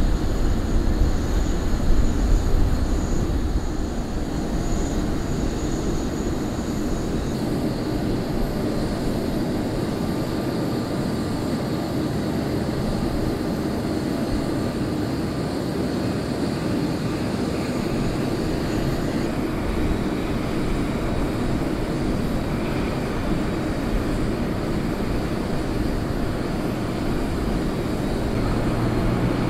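Jet airliner engines running: a steady rumble and hiss, a little louder in the first few seconds and then even.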